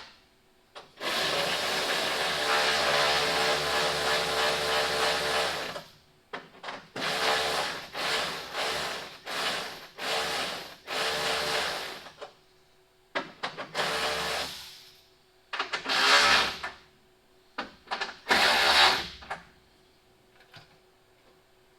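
Cordless electric ratchet running as it tightens headlight mounting nuts: one long run of about four seconds, then a string of short bursts as each nut is snugged down.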